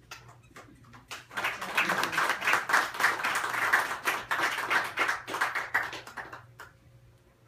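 A small group clapping hands in applause. A few scattered claps come first, the clapping fills in about a second in, and it thins out and stops near the end.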